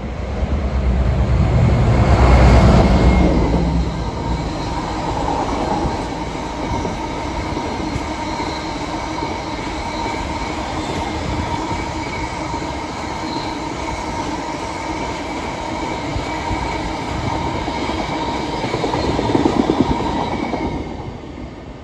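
GB Railfreight Class 60 diesel locomotive passing close by, its eight-cylinder Mirrlees engine loudest about two and a half seconds in. It is followed by its long rake of biomass hopper wagons rolling past with a steady rumble and faint steady whining tones in the wheel noise. The sound drops away at the very end.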